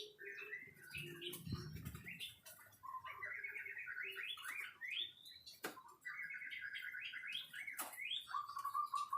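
White-rumped shama singing a fast, varied song: rapid runs of repeated chattering notes, quick rising whistles, and a few sharp down-slurred notes.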